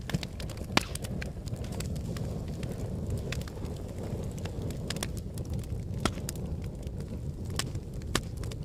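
Volcanic eruption: a steady low rumble with scattered sharp cracks and pops, the loudest about a second in.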